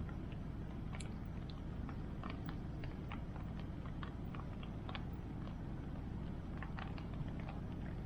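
Wood bonfire crackling, with irregular sharp pops and snaps over a steady low rushing background.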